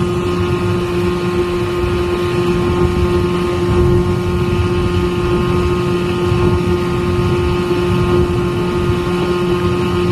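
Motorboat engine running steadily while the boat is underway: an even hum with a low rumble that holds at one speed.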